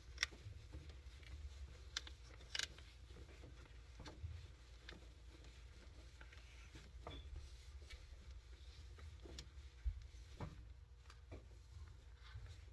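Faint, scattered clicks and taps with soft rustling as a pet cockatoo moves about inside a clothes dryer drum, picking at socks.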